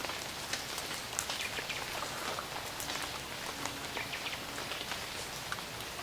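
Rain falling in a rainforest, a steady hiss with many separate drops striking at irregular moments.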